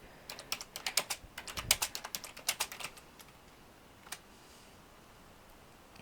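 Typing on a computer keyboard: a quick run of keystrokes for about three seconds, then one last key press about a second later.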